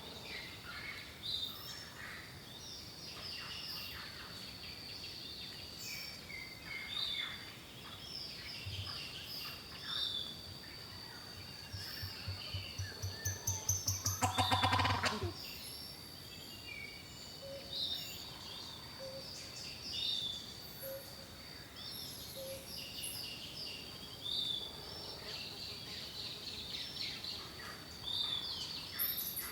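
Several birds chirping and singing over a steady high tone. About halfway through, a rapid run of pulses speeds up and grows louder for about three seconds, the loudest sound in the stretch.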